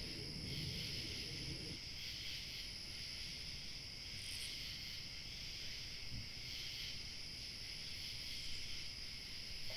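Evening chorus of crickets chirping steadily, with a thin, very high insect trill above it that drops out for a few seconds mid-way. A low rumble underneath stops about two seconds in.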